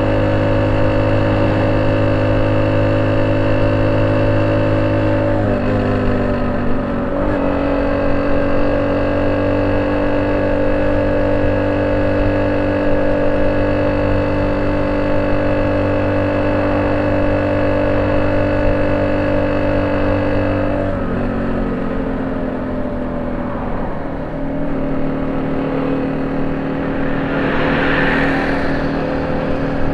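Honda C70's small single-cylinder four-stroke engine running steadily through a banana-style ('pisang') exhaust, its engine speed shifting slightly a few times.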